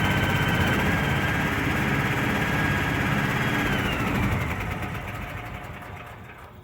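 Old 350 engine of a bucket truck running with a steady high whine from the generator and hydraulic pump it drives. About four seconds in, the whine drops in pitch and the whole sound fades as the engine shuts off and winds down.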